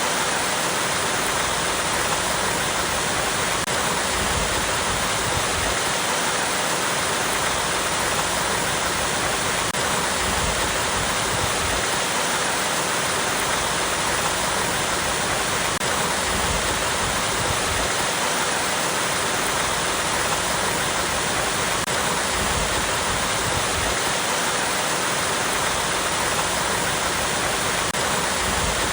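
Small waterfall splashing over rocks, a steady even rush of falling water that does not change.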